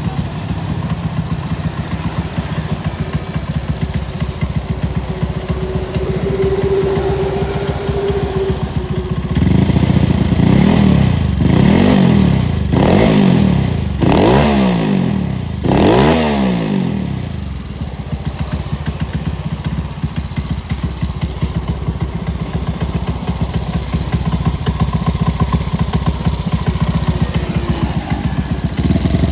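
Honda Scoopy scooter's single-cylinder engine, bored out to 130cc and fitted with a TZM aftermarket exhaust, idling; about ten seconds in it is revved in about five quick throttle blips, each rising and falling in pitch, then settles back to a steady idle.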